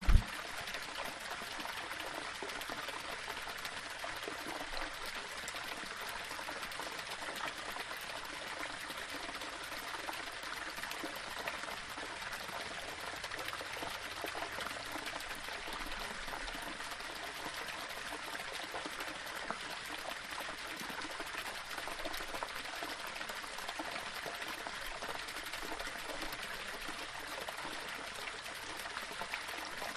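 Small waterfall splashing and trickling over rocks, a steady, even rush of water.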